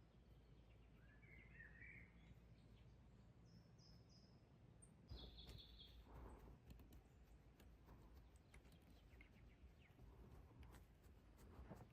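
Near silence with faint birdsong: a few short chirps in the first half, then scattered light clicks and rustles from about five seconds in.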